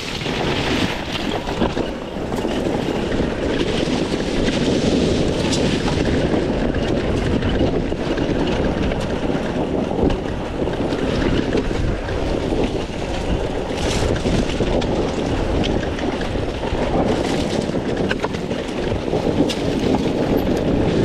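300cc two-stroke dirt bike engine running under varying throttle on rough trail, its loudness rising and falling, with a few sharp knocks and wind on the microphone.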